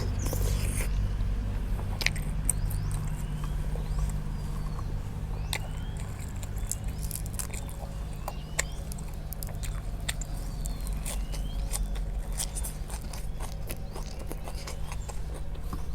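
Close-up chewing of crisp grilled meatballs: a steady run of sharp crunches and clicks. A few short rising bird chirps come now and then, over a steady low rumble.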